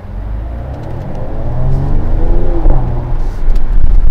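Mercedes-AMG GLE 53 Coupé's turbocharged inline-six pulling away and accelerating, the engine note rising, dropping with an upshift a little under three seconds in, then climbing again.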